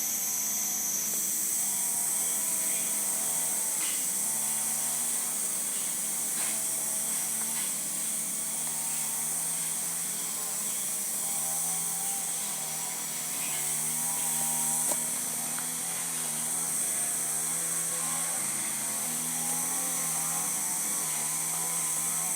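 Tropical forest ambience dominated by a steady high-pitched chorus of insects such as katydids, over a lower wavering hum and a few faint clicks.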